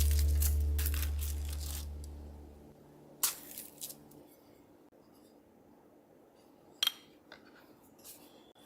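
Background music fading out over the first few seconds, then a quiet kitchen with a handful of short, sharp clicks and clinks from handling utensils and dishes, the loudest about three seconds in and again near seven seconds.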